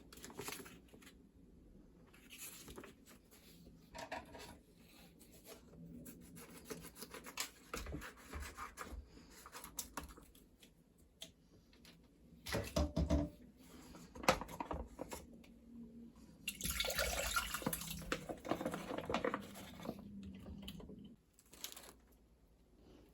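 Kitchen handling sounds: scattered clicks, knocks and rustling, then a few seconds of dense hissing noise, like running water or tearing packaging, in the second half.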